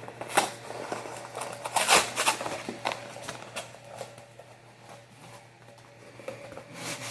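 Cardboard box and packaging being handled as a rolled rug is dragged out: a few short rustling, scraping bursts, the loudest about two seconds in, with quieter scuffing between.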